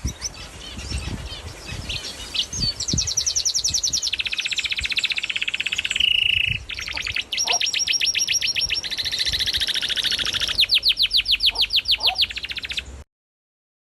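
Small pet birds singing in long, fast trills of rapidly repeated high chirps, one run following another, until the sound cuts off abruptly near the end.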